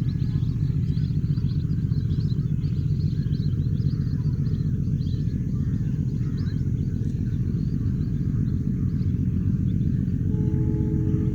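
Steady low rumble of a metre-gauge train running, with birds chirping over it.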